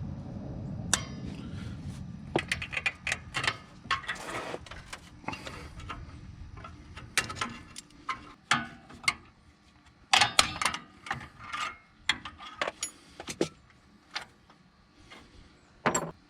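Hand tools clinking and scraping on the steel parts of a drum brake as the brake shoes are worked off: an irregular string of sharp metallic clicks and clanks, with a low rumble in the first few seconds.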